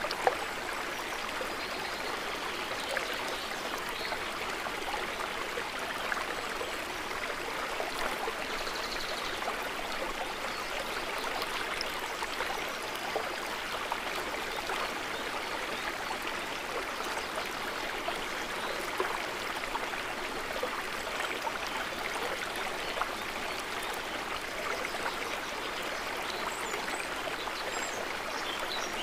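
Steady trickling and babbling of water, an even wash of small splashes and drips, with one sharp tick just after the start.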